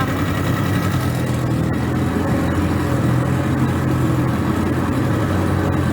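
A motor engine running steadily at an even pitch, a constant low drone.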